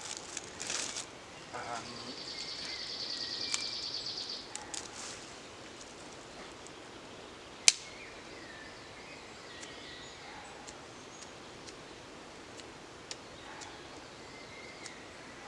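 Outdoor woodland ambience with faint short bird chirps. A high, even buzzing trill runs for a few seconds early on, and a single sharp click comes about halfway through.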